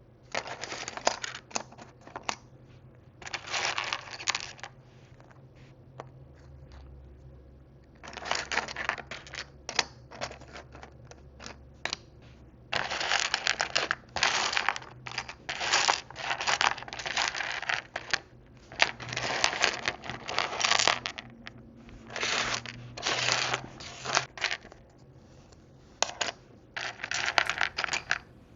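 Tiny plastic miniature dishes and food pieces clicking, rattling and scraping against each other as they are handled and sorted. The sound comes in irregular clusters of small clicks with short pauses between them, and a quieter stretch lasting a few seconds near the start.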